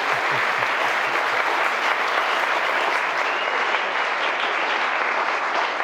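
Wedding guests applauding steadily, a dense even clapping.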